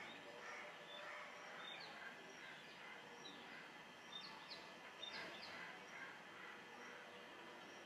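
Near silence: faint room hiss with distant birds chirping, short high notes repeating through it and a few quick downward-sweeping calls about four to five seconds in.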